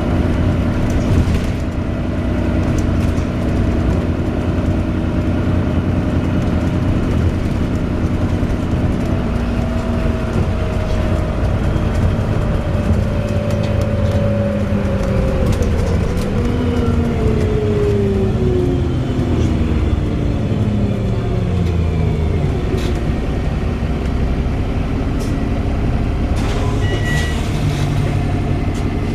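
Wright Pulsar Gemini 2 double-decker bus heard on board, its engine and drivetrain running steadily, with the pitch falling between about a third and three quarters of the way through as the bus slows. Scattered sharp ticks sound over the running.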